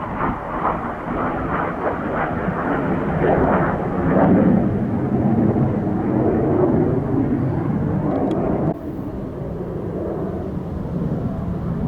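Saab Draken's afterburning turbojet, heard as loud jet noise with a crackling, rumbling texture that echoes off chalk cliffs. It is loudest about four seconds in and drops suddenly to a lower rumble near the end.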